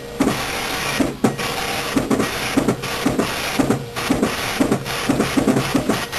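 Comic sound effect: a rhythmic run of short, quick beats, about three a second, over a steady noisy hiss.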